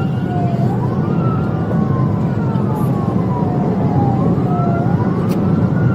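Police siren wailing in slow rising and falling sweeps, two wail tones overlapping out of step, over the steady low rumble of a car driving at speed.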